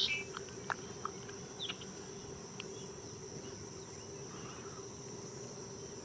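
Outdoor wetland ambience: a steady high-pitched drone of insects, with a few short, faint bird chirps in the first few seconds.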